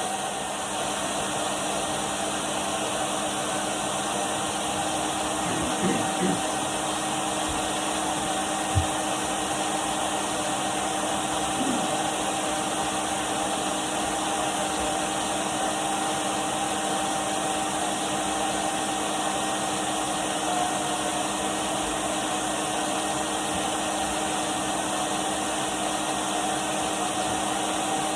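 Henry cylinder vacuum cleaner running steadily: a constant rushing of air over a steady motor hum and whine. A couple of soft bumps come about six seconds in, and a sharper knock a few seconds later.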